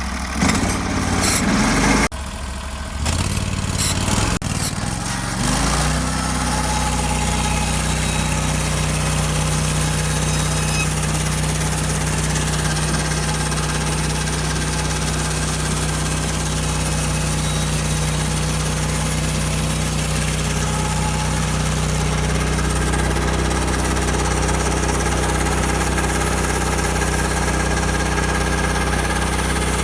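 Norwood HD36 portable bandsaw mill's engine, with a few clanks in the first seconds, then revving up about five seconds in and running steadily at a held speed.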